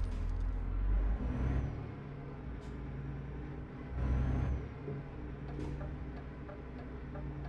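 Truck engine running, heard from inside the cab: a low drone that swells twice, at the start and again about four seconds in, with a hiss rising alongside each swell.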